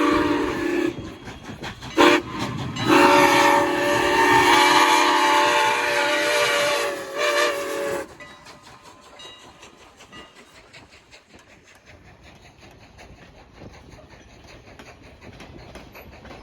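A locomotive's multi-note chime warning signal: a long blast ending about a second in, a short blast, then a long blast that cuts off about halfway through, the end of a grade-crossing pattern. Afterwards a passing train's wheels click faintly over the rail joints.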